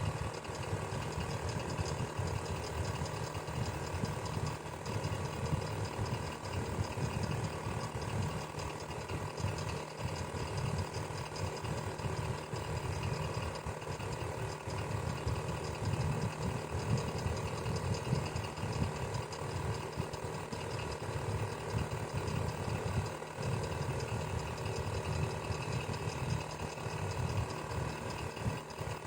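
Electric fan running steadily, with a low fluttering hum and a faint mechanical whir.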